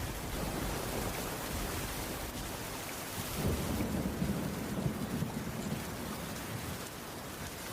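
Heavy rain falling steadily on a wooden cabin roof, an even hiss. A low rumble swells up about halfway through and fades again a couple of seconds later.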